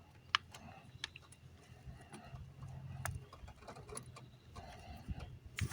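Faint, scattered metallic clicks and taps of hand tools and small engine parts being handled, a few sharp ticks spread a second or two apart.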